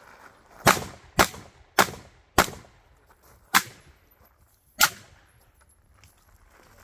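Six shots from a Beretta 1301 semi-automatic 12-gauge shotgun. Four come quickly about half a second apart, then two more with gaps of about a second.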